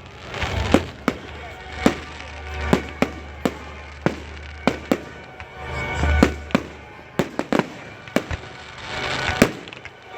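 Fireworks bursting overhead in a rapid, irregular run of sharp bangs and pops, about two a second, over music playing from the display's loudspeakers.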